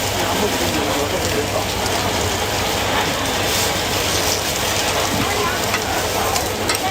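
Steady hiss of a busy street-food stall, with faint voices and a few light clicks and clatters, one sharper near the end.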